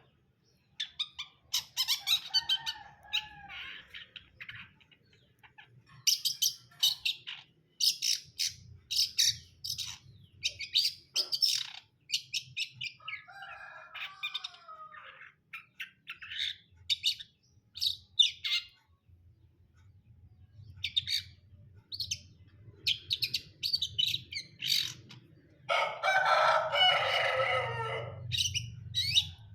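Long-tailed shrike (cendet) singing: runs of sharp, high chirps in bursts, with lower warbling phrases about 2 and 13 seconds in. About 26 seconds in it gives a harsh, rasping call lasting about two seconds.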